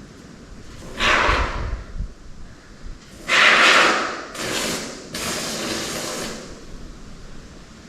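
Can of expanding spray foam hissing in four short spurts as foam is sprayed into gaps, with a soft knock or two under the first.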